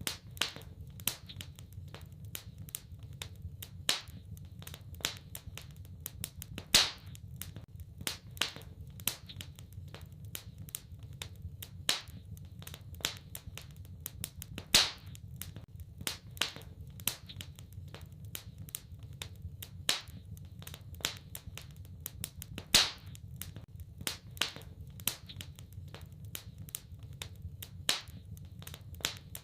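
Wood fire crackling in a fireplace: irregular sharp crackles and pops, a few much louder snaps every few seconds, over a steady low rumble of the burning.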